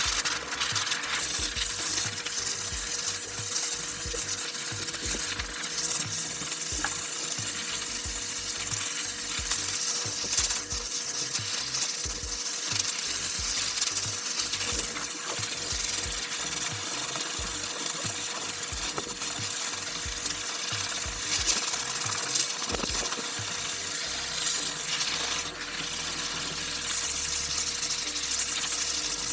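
Pet grooming blow dryer running steadily: a rush of air with a constant hum underneath.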